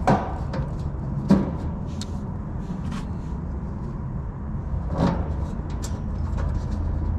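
Air conditioner condensing unit running with a steady low hum, with several sharp knocks and clicks over it, the loudest about a second in.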